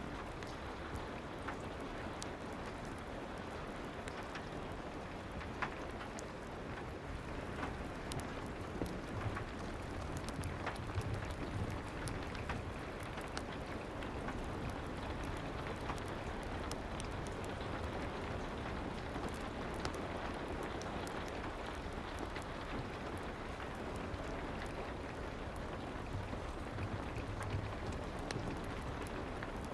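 Soft rain falling steadily, mixed with a fireplace crackling: an even hiss dotted with many small, sharp pops.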